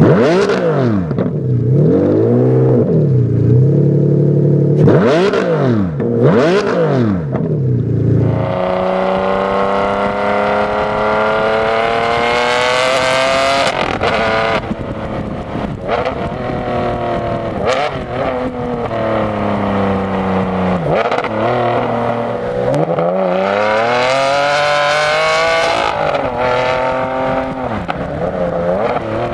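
Ferrari Enzo's V12 with a straight-pipe exhaust, blipped sharply from idle five or so times. Then, after an abrupt change, it is under hard acceleration, rising in pitch through the gears with sudden drops at each shift, lifting off and pulling hard again near the end.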